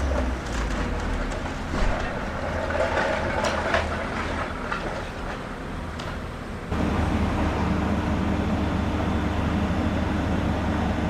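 Heavy diesel demolition machines running steadily, with scattered knocks and clatters of breaking masonry in the first half. About two-thirds of the way in, the engine sound steps up abruptly and stays louder.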